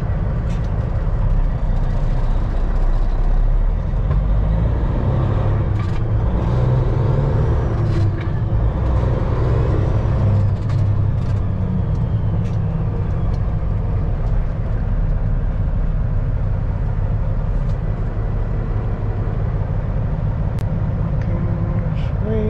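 Semi truck's diesel engine running under way, a steady low drone heard from inside the cab while driving.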